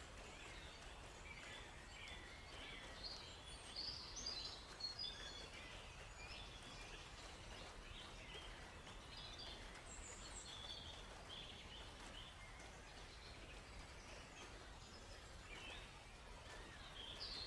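Several small songbirds chirping in short, high, scattered calls over a faint steady background hiss, the calls busiest about three to five seconds in and again around ten seconds.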